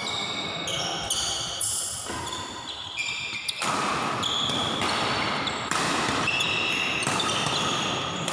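Badminton rally in a sports hall: rackets hitting the shuttlecock with sharp knocks, and many short, high-pitched squeaks of shoes on the court floor, in an echoing room.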